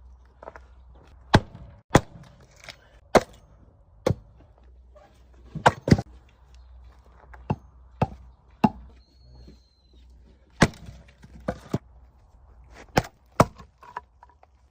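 An axe repeatedly striking and splitting firewood: a dozen or more sharp chops at an irregular pace, some coming in quick doubles.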